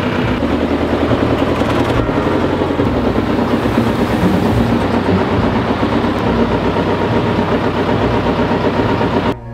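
John Deere tractor engine running steadily, cutting off suddenly near the end.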